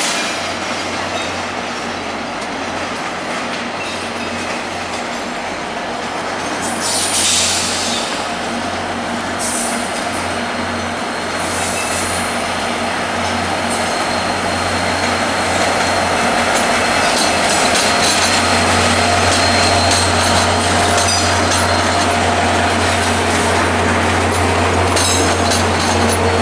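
VIA Rail F40PH-2 diesel locomotive, with its EMD 16-cylinder two-stroke engine, rolling slowly past at the head of a passenger train, its steady low rumble growing louder about halfway through. The wheels squeal briefly a few times in the first half, and near the end the passing cars' wheels click over rail joints and switches.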